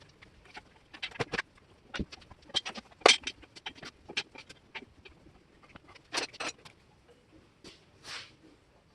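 Irregular light clicks and knocks, sometimes several in quick succession, with short quiet gaps between them.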